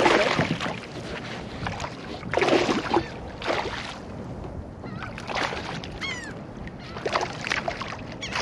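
Irregular bursts of splashing and knocking around a kayak as a hooked speckled trout is reeled in and landed. A brief high chirp comes about six seconds in.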